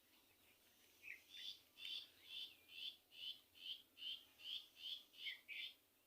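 A bird calling faintly: a run of about a dozen short high notes, evenly spaced at two to three a second, starting about a second in.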